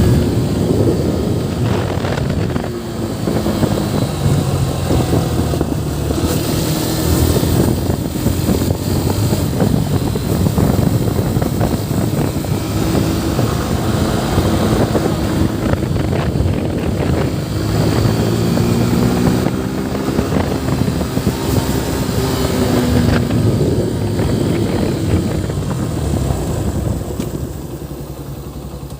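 Yamaha FZ V3's single-cylinder motorcycle engine running under way, with wind rushing over the microphone. The engine note rises and falls with the throttle and gear changes, and the sound quietens near the end.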